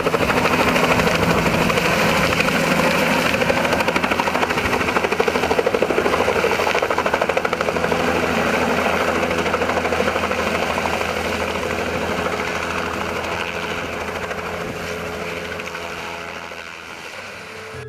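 Helicopter running: steady engine and rotor noise with a rapid pulsing beat, getting quieter over the last few seconds.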